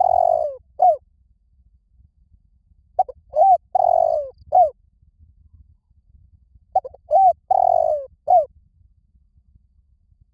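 Spotted dove cooing its song, short coos around a longer, louder rolling coo. Two full phrases come about four seconds apart, after the tail of another at the start. It is the call used to stir a decoy dove and lure wild doves in.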